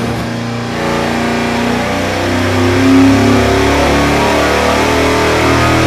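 Small-block Chevy V8 running at full throttle on an engine dynamometer during a power pull, its rpm climbing steadily through the mid-range.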